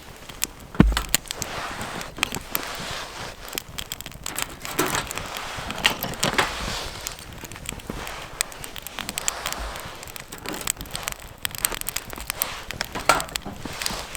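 Irregular crackling and clicking, with one heavy thump about a second in.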